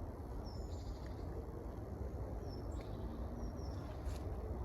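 Outdoor quiet with a few faint, short bird chirps over a steady low rumble.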